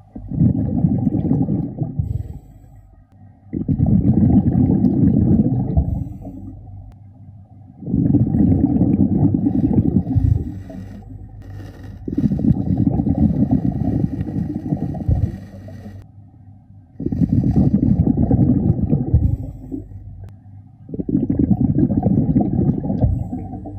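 Underwater breathing of a diver on a regulator: six rumbling bursts of exhaled bubbles, about one every four seconds, with quieter inhalations between, heard muffled under water.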